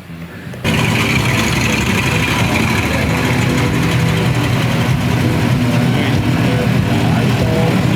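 A motor vehicle engine idling steadily with a low rumble, starting abruptly under a second in.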